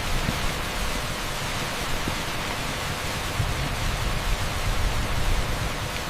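Torrential rain pouring onto an asphalt street: a dense, steady hiss over a heavy low rumble.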